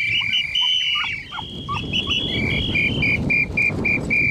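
High-pitched beeping at two steady pitches, long tones at first, then short even beeps about four a second from about two seconds in. Brief chirps sound in the first two seconds, and a low rumble runs beneath from about a second and a half in.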